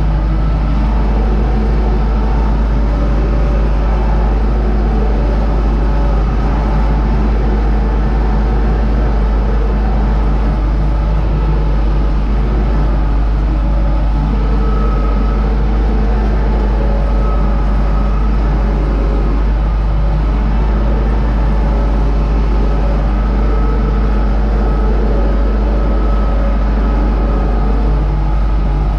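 Universal U650 tractor's four-cylinder diesel engine running steadily under load while pulling a seed drill, a constant loud drone with no change in speed.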